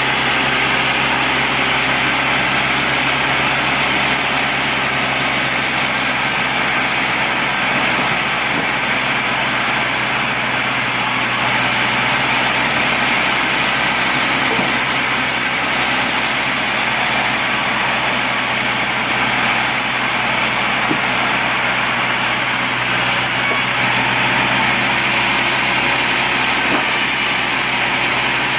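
Sawmill bandsaw running steadily, a constant machine hum with a hiss over it that holds the same level throughout.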